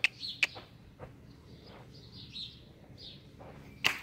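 Small birds chirping: a few short, sharp chips, the loudest near the end, with softer twittering between them.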